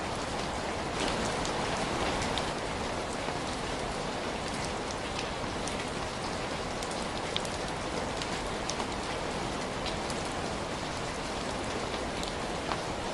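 Steady rain falling, an even hiss with scattered light ticks through it.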